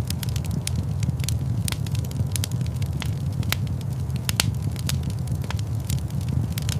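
Fire in a stone fireplace crackling: irregular sharp pops and snaps, some louder than others, over a steady low rumble of the flames.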